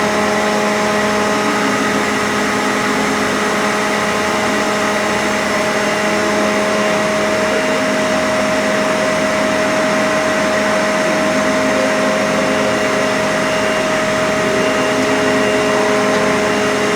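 CNC machine running steadily: an even motor hum and hiss with a fixed whine, never changing in speed.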